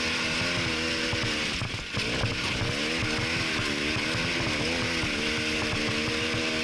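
Arctic Cat Wildcat Trail UTV's 700 cc engine running under way, its pitch rising and falling as the throttle changes, over a steady hiss.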